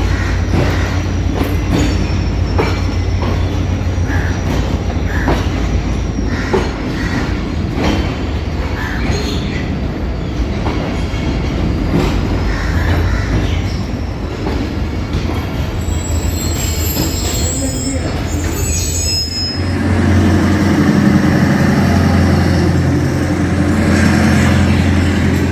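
A passing passenger train: wheels clacking over rail joints in an irregular run of sharp clicks over a low rumble, with faint wheel squeal. After about 19 seconds the clacking gives way to a steady low drone of a diesel locomotive engine.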